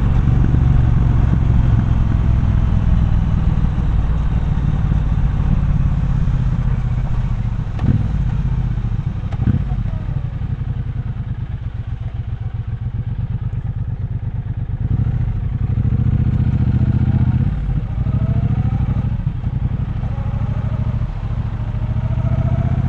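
Triumph Bonneville Bobber's 1200 cc parallel-twin engine running under way with a deep pulsing exhaust, easing off in the middle and picking up revs again later. A couple of short knocks come about a third of the way in.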